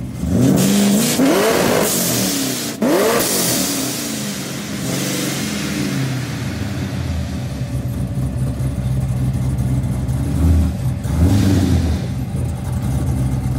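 Supercharged, built LS3 V8 of a 2008 Corvette revving hard twice in the first three seconds, each rev a rising pitch, then running steadily with a brief surge in revs near the end.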